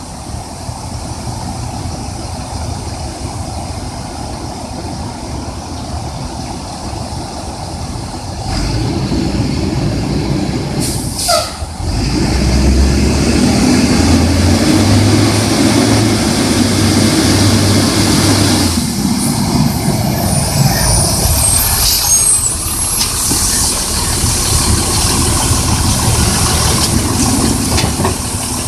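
Garbage truck engine running, growing louder about a third of the way in, then revving in steps for several seconds. A brief squeal and a hiss, typical of air brakes, come just before the revving.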